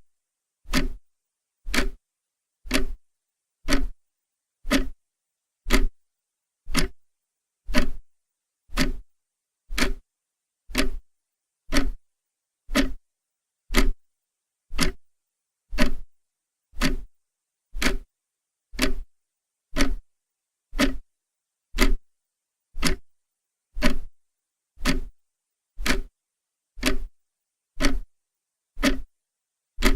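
Clock ticking steadily, about one sharp tick a second, with silence between ticks.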